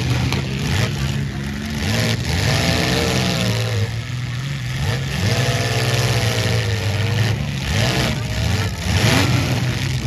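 Engines of midsize demolition derby cars running and revving in repeated rises and falls over a steady noisy wash.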